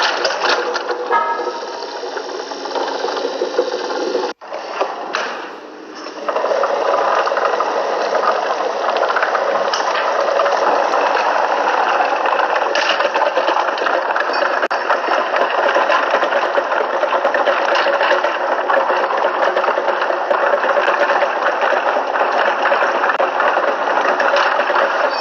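A small engine or motor running with a rattling whir. It cuts out abruptly a little over 4 s in, comes back quieter, and runs steadily again from about 6 s.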